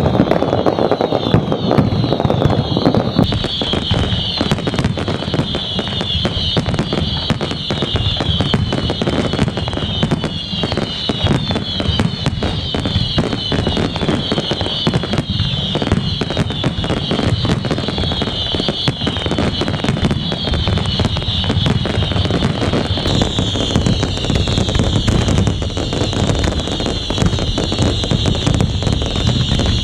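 Fireworks display in full barrage: dense continuous crackling and bangs, overlaid with many whistling fireworks whose whistles fall in pitch, one after another.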